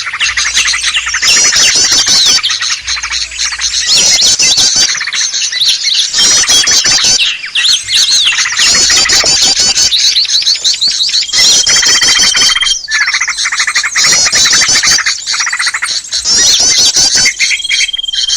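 Bird-lure recording of many small songbirds chattering and chirping at once in a loud, dense, continuous din, with a long steady whistle twice, near the middle and near the end. It is played to draw in small wild birds.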